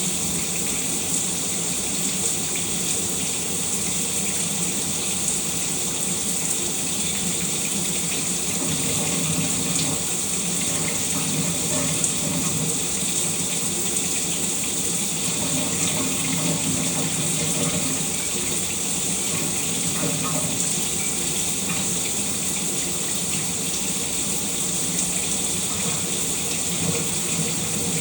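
Shower running steadily, water spraying and splashing in an even, unbroken rush.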